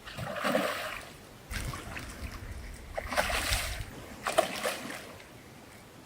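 Water splashing and sloshing in four short bursts, with a few sharp clicks among them.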